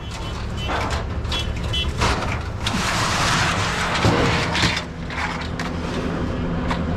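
A motor vehicle's engine running steadily, with bursts of scraping and rattling over it and one sharp knock about four seconds in.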